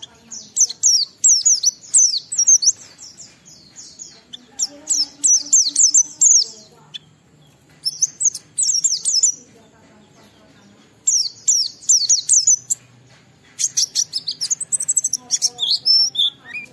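White-eye (pleci) singing in fast, high-pitched twittering runs, each lasting a second or two with short pauses between. This is the loud continuous song that keepers call ngalas. Near the end the phrases carry some lower, falling notes.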